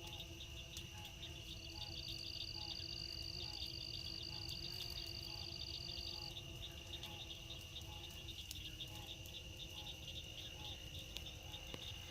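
Crickets and other insects chirping steadily in a fast, even pulsing trill, with a higher insect tone joining for a few seconds near the start. Under it runs a faint, low steady hum.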